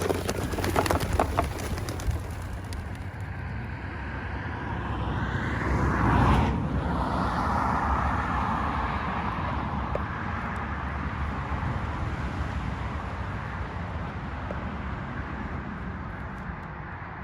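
A car passing on the road, its tyre and engine noise swelling to a peak about six seconds in and then fading away slowly. A few sharp clicks sound in the first second or two.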